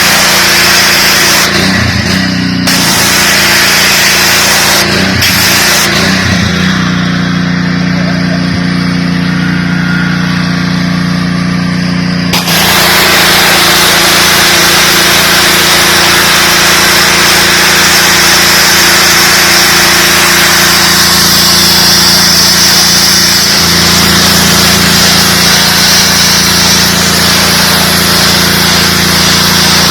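DeWalt 3600 psi gas pressure washer running steadily. About twelve seconds in, the hiss of the high-pressure water jet comes in strongly over the engine and stays.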